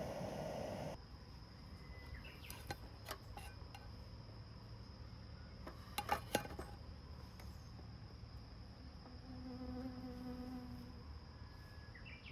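Outdoor ambience of insects: a steady high thin insect tone, with a buzzing hum like a passing fly about ten seconds in. A few light clicks and clinks sound around three seconds and again at about six seconds.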